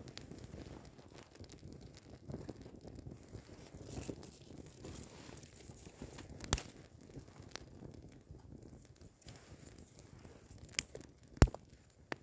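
Wood campfire crackling, with three sharp pops in the second half, the loudest near the end.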